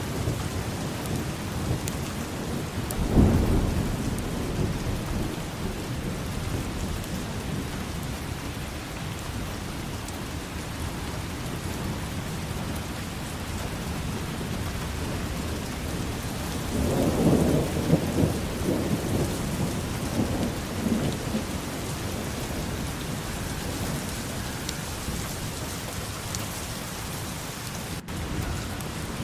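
Steady heavy rain falling, with thunder: a short low rumble about three seconds in and a longer rolling rumble a little past the middle.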